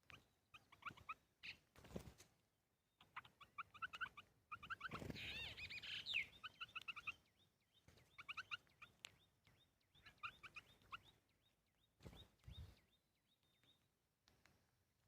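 Birds calling in runs of short, quickly repeated notes, with a louder warbling burst about five seconds in. A couple of low thumps come between the calls.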